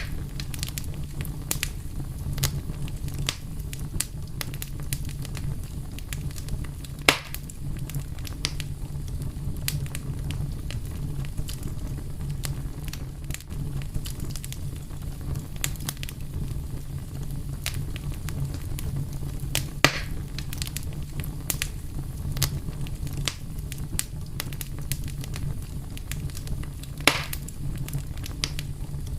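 Wood fire crackling over a steady low rumble, with frequent small pops and three louder, sharper snaps spread through.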